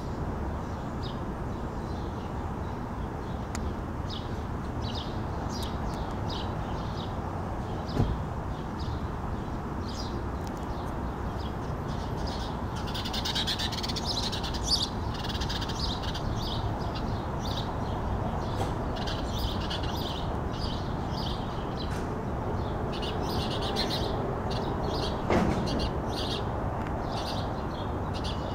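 Birds chirping over and over in the background, thickest about halfway through, over a steady low outdoor hiss, with a single soft knock about eight seconds in.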